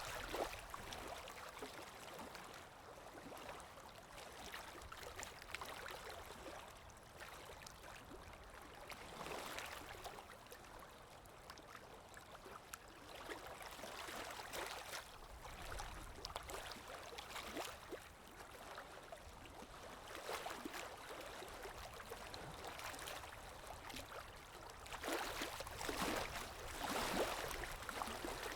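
River water gently lapping and rippling, swelling and fading every few seconds and a little louder near the end.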